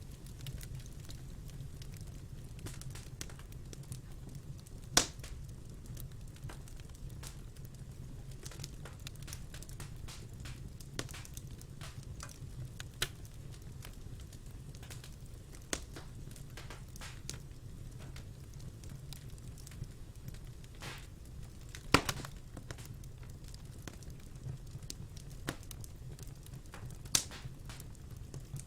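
Fire crackling in a fireplace: a steady low rumble with scattered small clicks and snaps, and three sharp, louder pops, about five seconds in, a little past the middle, and near the end.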